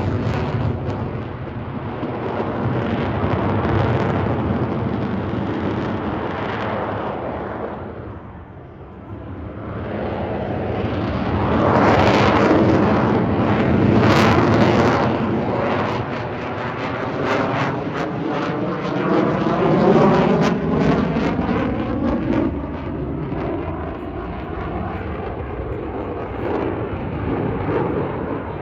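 Airplane flying past, its engine noise swelling and fading. It dips about eight seconds in, is loudest a few seconds later, then sweeps away.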